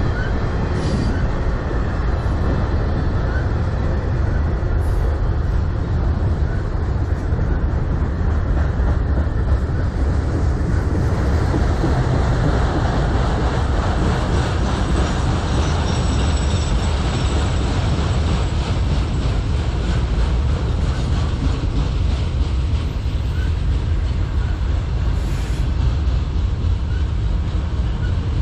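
CN freight train of autorack cars rolling past close by: a loud, steady rumble of steel wheels on the rails.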